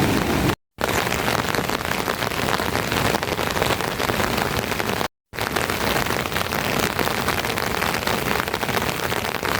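Steady rain falling, an even hiss of many drops, cut off twice for a split second about half a second and about five seconds in.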